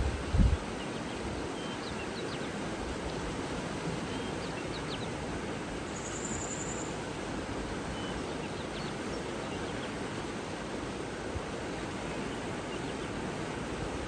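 Steady rushing water with small birds chirping faintly over it, and a short high trill about six seconds in. A low rumble sounds briefly at the very start.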